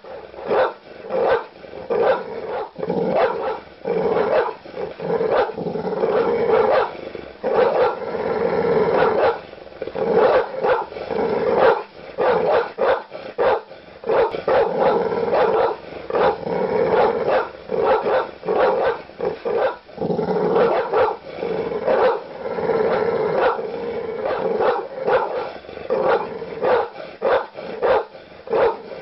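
Large dog barking aggressively in rapid, near-continuous barks, with growling mixed in.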